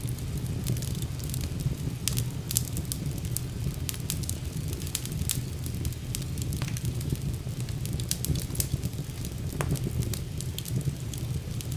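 Wood fire burning in a fireplace: a steady low rumble of flames under frequent sharp crackles and pops.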